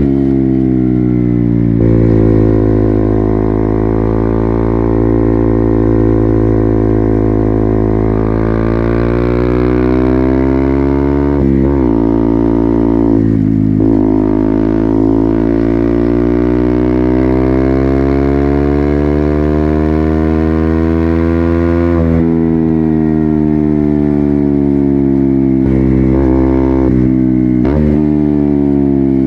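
KTM Duke 200's single-cylinder engine through an Akrapovic full-system exhaust, riding under way. The engine pitch climbs and falls repeatedly, with brief sharp dips a few times, as on gear changes.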